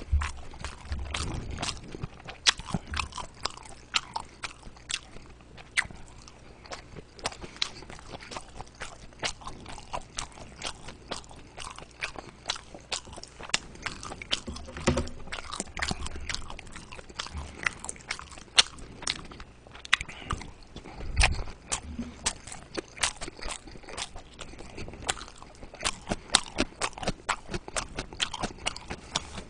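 A person chewing mouthfuls of steamed meat-filled dumplings close to the microphone: a steady, irregular run of small mouth clicks and smacks.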